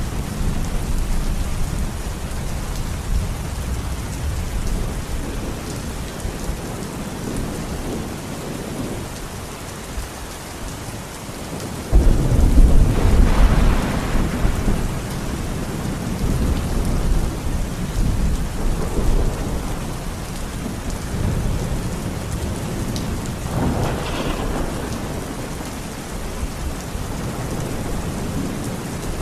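Heavy rain falling steadily with rolling thunder. Partway through, a sudden loud thunderclap breaks in and rumbles on for a few seconds, and a second, weaker rumble follows later.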